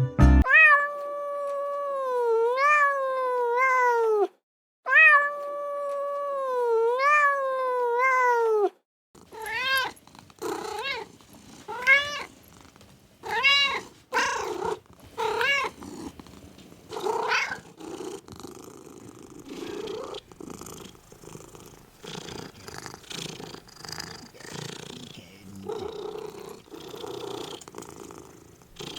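Kittens meowing: two long, wavering cries, the second the same as the first, then a run of short meows about one a second, then a quieter stretch of purring with faint meows.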